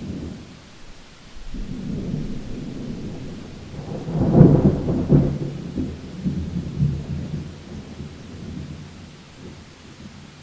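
Thunder rolling over steady rain: a low rumble builds about a second and a half in, cracks loudest around the middle, then rumbles away toward the end.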